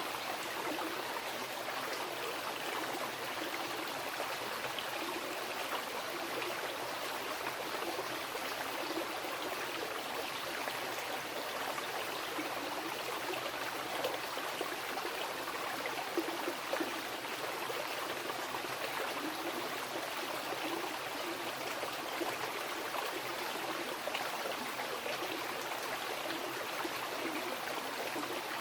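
Mountain river rushing steadily over rocks, a continuous even wash of flowing water with small gurgles and splashes.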